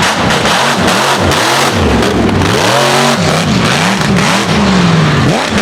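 Mega truck's big engine revving hard, its pitch swinging up and down again and again as the throttle is worked during a mud-race run, over a steady rushing noise.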